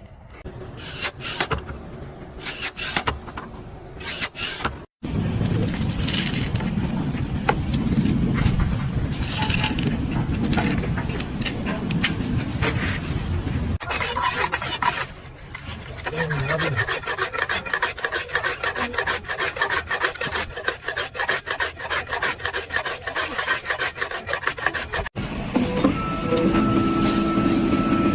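Scraping and rubbing noises, made up of many fine repeated strokes, in several cut-together stretches that change suddenly about 5, 14, 16 and 25 seconds in.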